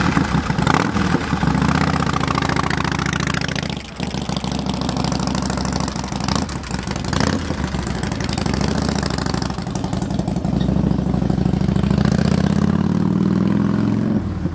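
Harley-Davidson motorcycle's V-twin engine running steadily, dipping briefly about four seconds in, with the revs rising near the end.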